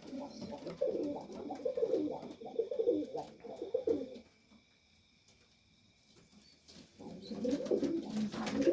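Domestic pigeons cooing in a loft, one call after another. The calls stop for about three seconds midway, then start again near the end.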